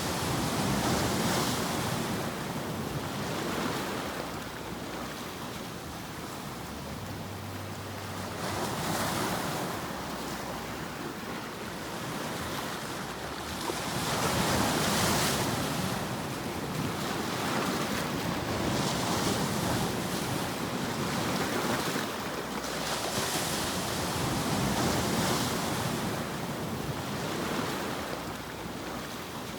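Ocean surf washing in: a continuous rush of noise that swells and falls back every few seconds.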